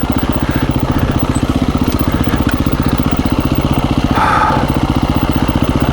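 KTM 350 EXC-F's single-cylinder four-stroke engine running steadily at low revs with a fast, even thumping. About four seconds in, a brief higher-pitched noise sounds over it for half a second.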